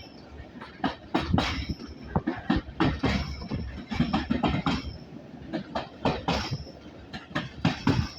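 Old railway passenger carriage running along the track, heard from inside: a steady low rumble with rapid, irregular knocks and rattles as the wheels clatter over the rails and the loosely sprung body wobbles.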